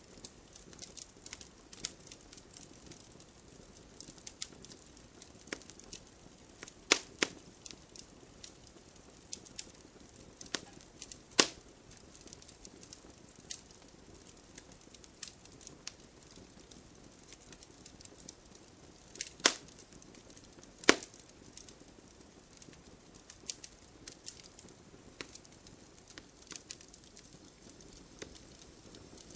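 Wood fire crackling: a steady scatter of small ticks and snaps over a soft hiss. Four louder pops stand out, two in the first half and two close together just past the middle.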